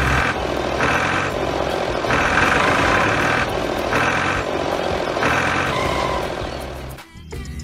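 Tractor engine running steadily, with a higher part that surges on and off about once a second. It drops away sharply near the end.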